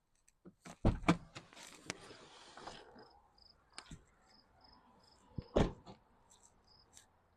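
A few sharp knocks and rustling close to the microphone, loudest about a second in and again past the middle. From about three seconds in, an insect chirps in short, high, regularly repeated notes.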